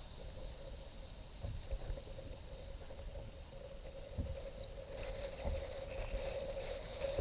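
Water lapping and knocking against a kayak hull, with a few soft low thumps and a faint steady hum throughout.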